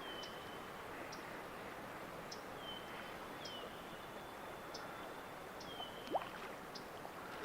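A small bird calling again and again with short, thin, high notes about once a second, some sliding down and briefly held, over a steady faint hiss of running water. A brief lower rising note sounds about six seconds in.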